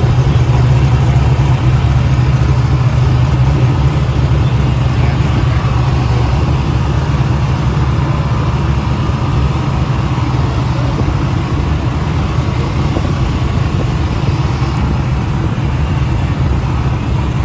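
Turbocharged drag truck's engine idling steadily, a deep even rumble that eases slightly in level over the stretch.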